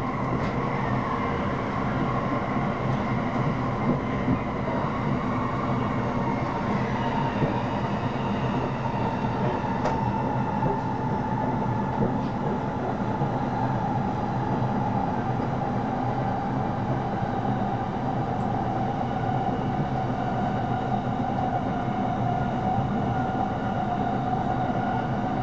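Shonan-Shinjuku Line electric commuter train running, heard from inside the carriage: a steady rumble of wheels on rail with a whine that drops slowly in pitch, as the train gradually eases its speed.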